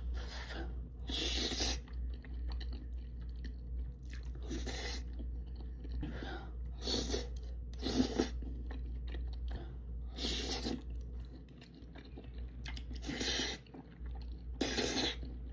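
A person chewing food close to the microphone, mukbang-style, with wet mouth sounds coming in short bursts every second or two.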